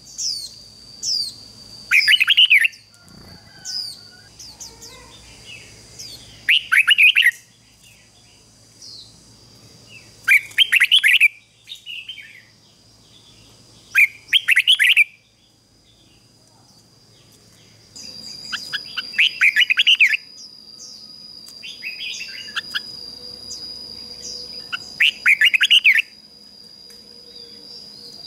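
Red-whiskered bulbul singing: loud, short bursts of quick chirping phrases every few seconds, the song of a decoy bird calling to wild bulbuls. A steady high-pitched whine runs underneath and grows stronger about two-thirds of the way through.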